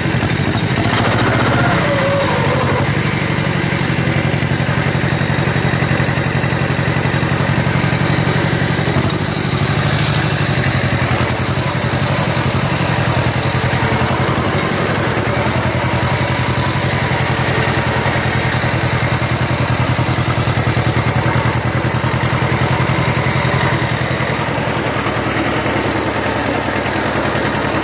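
Kubota L1500 tractor's 18-horsepower diesel engine running steadily under way, with a brief dip in level about nine seconds in.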